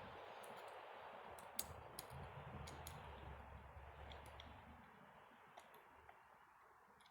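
Faint, scattered clicks of small metal parts of an old Delco-Remy distributor being handled and fitted back into place during reassembly, about ten in all, over a low hiss that slowly fades.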